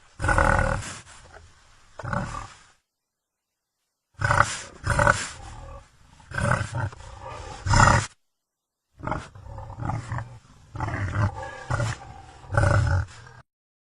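Tiger roars played as a sound effect: a run of loud, rough roars in three groups, each group cutting off suddenly into dead silence.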